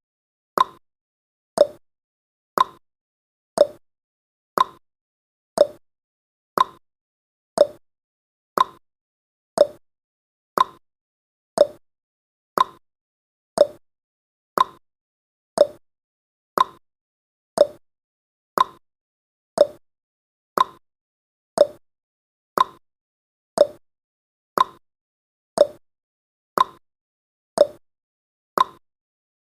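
Clock-tick sound effect of a countdown timer, one short, sharp tick every second in a steady rhythm.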